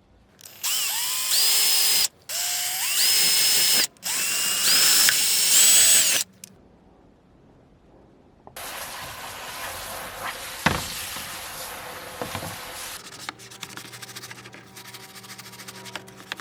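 Small electric power tool, drill-like, run three times in quick succession, its whine rising in pitch and then holding steady on each run. After a pause comes a quieter, rougher noisy stretch with one sharp knock.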